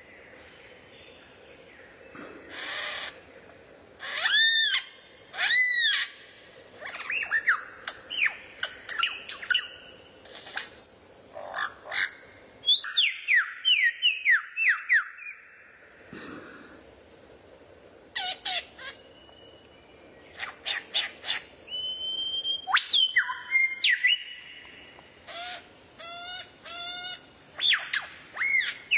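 Songbird singing a varied run of separate phrases: arched whistled notes, quick chirps and sharp rising and falling calls, with short pauses between them.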